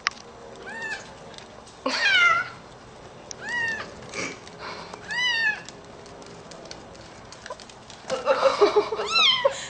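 A cat meowing repeatedly: about five drawn-out meows, each rising then falling in pitch, a second or two apart. A louder jumble of sound comes near the end.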